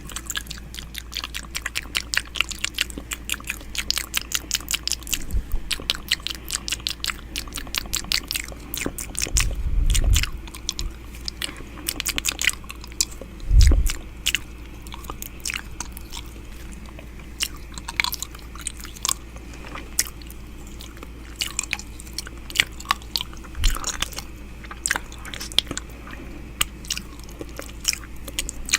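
ASMR 'ear eating' mouth sounds close to the microphone: wet clicks and smacks of lips and tongue, in quick runs for the first several seconds and more scattered after that. Two brief low thuds come about ten and fourteen seconds in.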